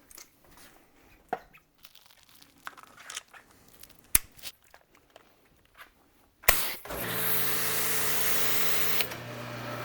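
Small handling clicks and knocks, then a sharp click about six and a half seconds in and the steady hiss of a pressure washer gun spraying through a foam cannon, with the washer's motor humming underneath. The spray drops to a quieter level about two seconds later. The foam cannon is foaming poorly.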